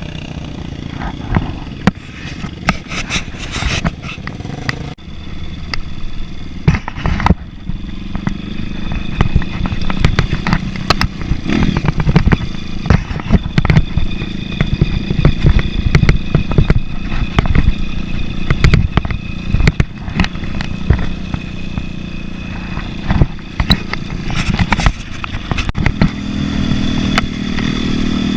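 Motorcycle engine running during an off-road trail ride, with frequent clattering knocks over rough ground. The engine gets louder and higher near the end.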